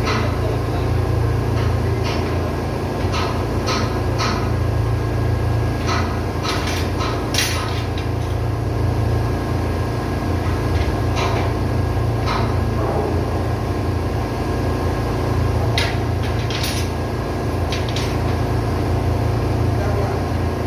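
Diesel engine running steadily with a deep, even drone, with short metallic knocks and clicks every second or two on top, as of tools against metal.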